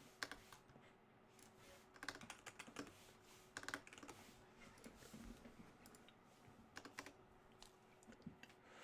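Faint typing on a computer keyboard: short runs of keystrokes separated by pauses, over a faint steady hum.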